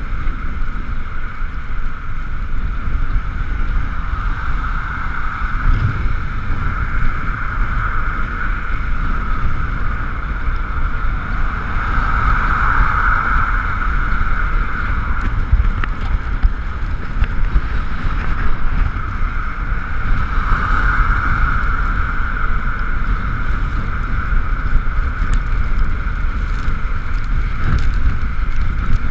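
Ekoway ML5000 electric scooter riding along: wind rumbling on the camera's microphone under a steady high whine that swells twice, about twelve and twenty-one seconds in.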